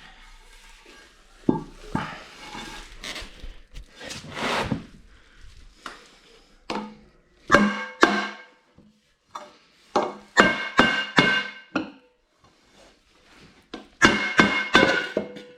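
A three-piece BBS RS aluminium wheel being struck hard again and again to break its halves apart, a series of sharp blows, some in quick pairs and threes, each leaving a metallic ringing tone.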